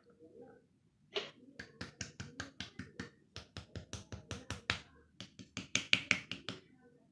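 A quick run of short, sharp taps or clicks, about four a second, starting about a second in and stopping shortly before the end.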